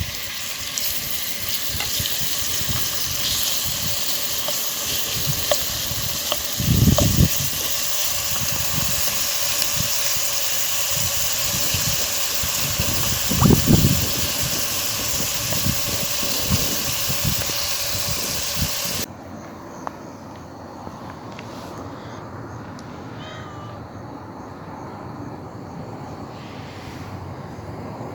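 Food sizzling and frying in a hot pan, a steady hiss broken twice by a dull low thump. About two-thirds of the way through the sizzling cuts off abruptly, leaving quieter background noise.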